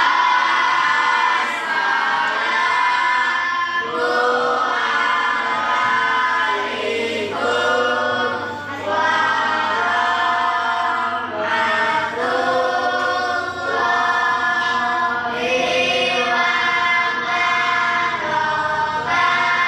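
A class of children chanting in unison in long drawn-out, sung phrases with short pauses between them, the way a class recites a greeting together.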